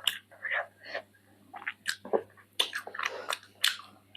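Close-up mouth sounds of a person eating chicken feet curry with rice: irregular wet chewing, smacking and sucking clicks, several a second, easing off briefly a little after a second in.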